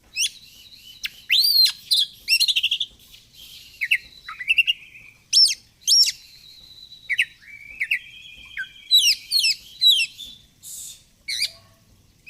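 Oriental magpie-robin (kacer) singing a loud, varied song: rising and falling whistled sweeps, a fast run of repeated notes and longer held notes, in separate phrases with short pauses between them.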